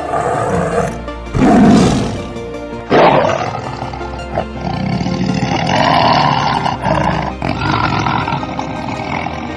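Amur tiger roaring, with two loud roars starting about one and three seconds in and lower-level roaring between and after, over background music.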